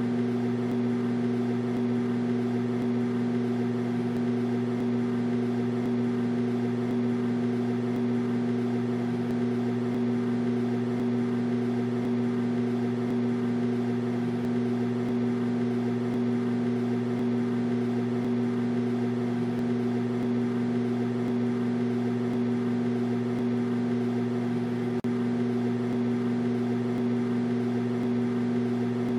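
Microwave oven running, a steady unbroken hum with no beeps or changes.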